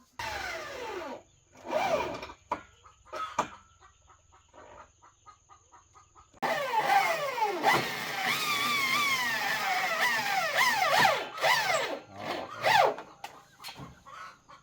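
Chickens squawking loudly: a few short falling calls near the start, then from about six seconds in a long unbroken run of shrill, wavering squawks that lasts several seconds before breaking into shorter calls.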